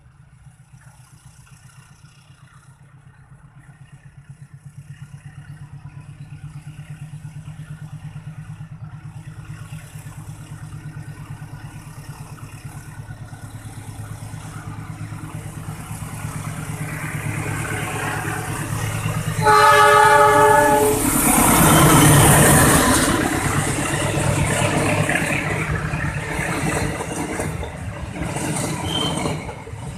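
Diesel locomotive approaching, its deep pulsing engine drone growing steadily louder; it sounds its horn once for about a second and a half, then passes close by. The passenger coaches follow, rumbling and clattering over the rail joints.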